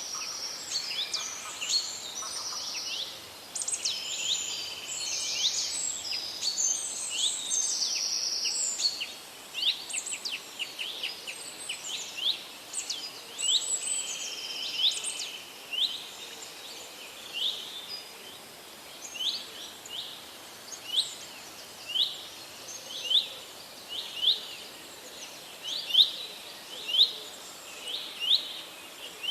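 Wild birds chirping and singing: a dense chorus of overlapping calls and trills for the first ten seconds or so, then one bird's short sweeping chirps repeated about once a second, louder toward the end, over a faint steady hiss.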